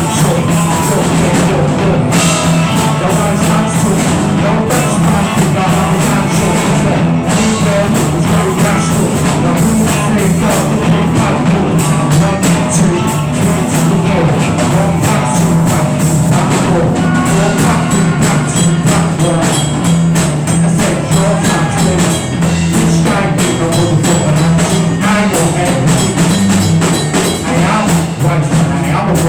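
Loud rock band jam with drum kit and electric instruments, holding a steady low note underneath.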